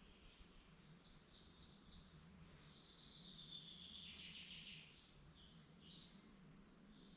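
Faint woodland birdsong: a quick run of four short high notes about a second in, then a longer warbling phrase through the middle, and a few scattered high chirps near the end, over a faint steady low hum.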